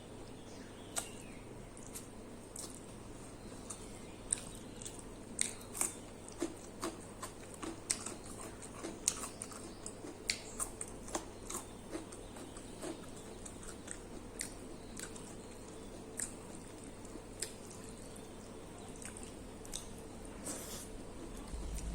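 Close-up eating sounds of a person chewing and biting food, with irregular wet mouth clicks and smacks, several a second at their busiest through the middle.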